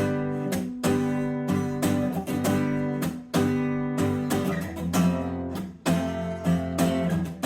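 Acoustic guitar strummed chords between sung lines, each strum a sharp attack that rings on.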